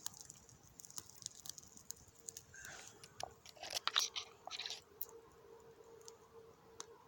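A campfire of rain-soaked wood crackling and popping as it is lit from a second side, with a denser flurry of crackling from about two and a half to five seconds in. From about three seconds in a thin steady whistle joins it, the wet wood hissing as it steams.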